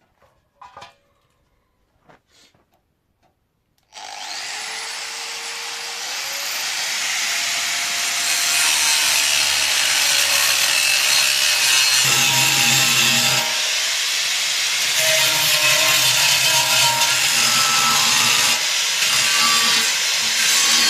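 A power tool cutting, starting abruptly about four seconds in after a few faint clicks, then running steadily and growing louder over the next few seconds.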